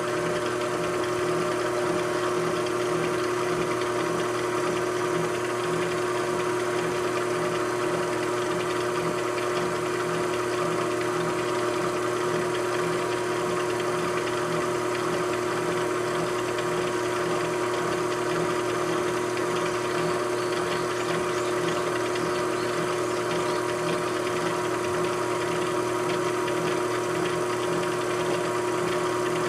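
Machine tool running steadily: an even motor hum with a strong steady tone and a faint regular pulsing underneath, unchanging throughout.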